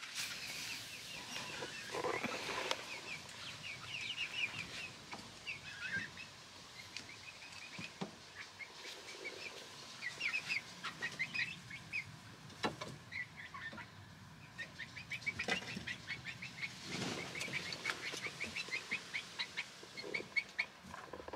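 Birds chirping in quick runs of short high notes, with a few faint knocks.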